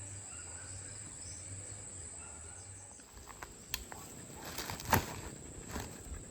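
Steady high-pitched drone of insects, crickets or similar, over rural background. About halfway through, a scatter of sharp clicks and knocks begins, the loudest about five seconds in.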